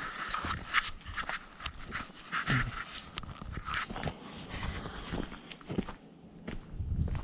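Footsteps of a hiker walking along a woodland trail, a run of irregular steps that thins out near the end.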